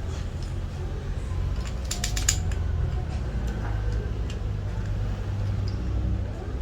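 Metal tool parts handled during a repair, with a quick cluster of sharp clicks about two seconds in, over a steady low hum.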